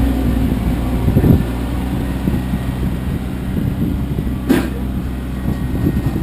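Kioti CK25 compact tractor's diesel engine running steadily, with a single sharp clank about four and a half seconds in.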